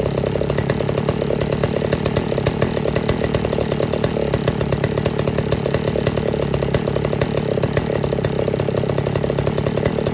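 Vintage Pioneer Farmsaw two-stroke chainsaw running steadily, with no change in engine speed.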